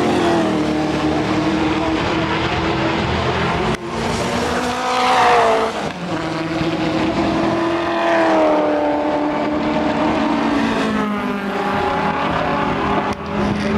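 V8 Supercar race cars' V8 engines at racing speed, the engine note rising and falling as the cars accelerate, pass and shift gear, with brief drops near four seconds and again near the end.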